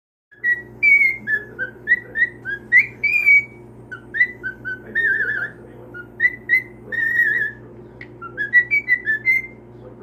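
Pet cockatiel whistling its song: a quick run of short chirped whistles broken by a few longer, wavering held notes, over a steady low hum.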